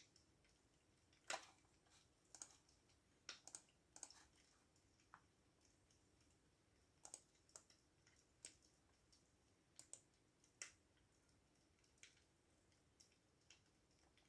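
Computer keyboard keys clicking, sparse and uneven, about one keystroke a second with an occasional quick pair.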